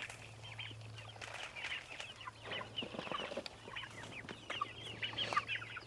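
A flock of chickens clucking, with many short overlapping calls.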